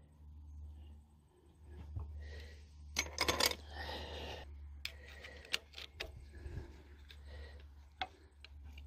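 Small metal valve parts from a diesel engine head clinking and rattling as they are handled and set down, with scattered sharp clinks and a few clustered together about three seconds in, over a low steady hum.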